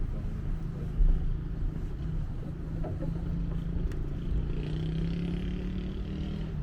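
An engine running with a steady low hum that rises slightly in pitch about five seconds in.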